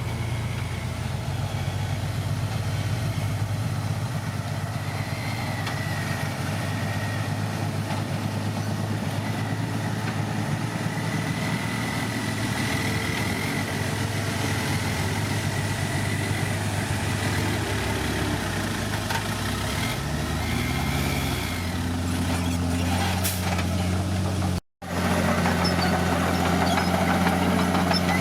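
Heavy diesel engine of earthmoving machinery running steadily. Its revs rise about 20 seconds in. The sound cuts out for an instant a few seconds later and resumes a little louder.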